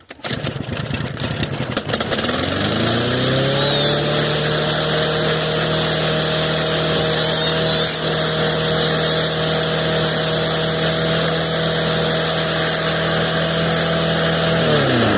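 2007 Snapper self-propelled lawn mower's small engine starting after a hard start, freshly primed: it sputters and fires unevenly for about two seconds, climbs in pitch up to speed, runs steadily, then winds down near the end.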